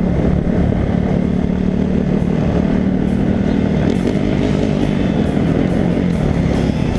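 Dirt bike engine running at a steady cruising speed, heard from a helmet camera with wind rushing over it.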